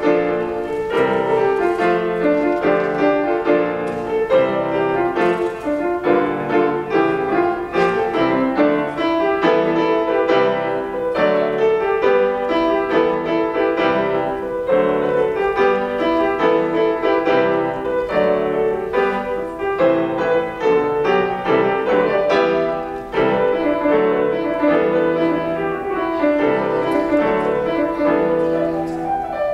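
Solo piano playing a continuous, fast passage of many quick notes and chords.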